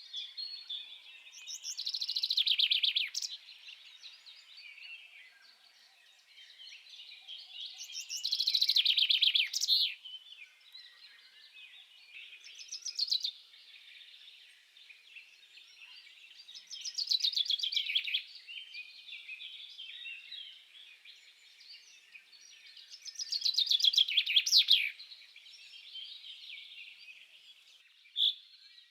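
Birdsong: a bird repeats a loud, descending trilled song five times, about every six seconds, over a steady background of softer high-pitched chirping.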